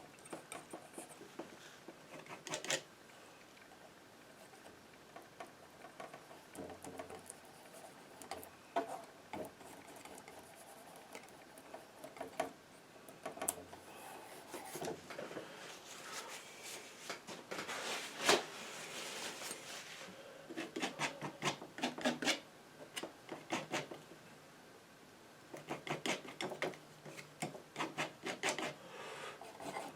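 Painting knife scraping and dabbing paint onto a canvas, a series of short scratchy strokes that come in quick runs, busiest in the second half.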